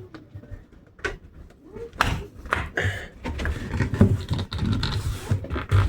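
Clicks, knocks and scraping of metal door hardware being handled and forced into place: a single sharp click about a second in, then a busy run of knocks and rattles from about two seconds in.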